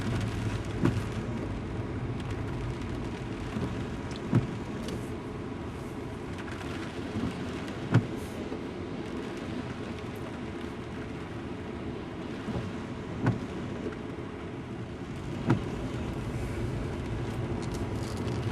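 Car driving in a rainstorm, heard from inside the cabin: a steady low road rumble with rain, and a few sharp, irregular taps.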